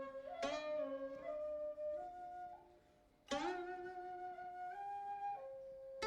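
Instrumental background music: a flute-like melody of held notes stepping in pitch, over plucked string notes struck sharply twice, about half a second and three seconds apart.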